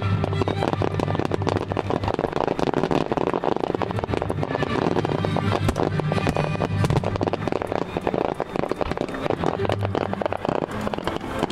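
Fireworks crackling and popping in a rapid, unbroken string, with music playing underneath.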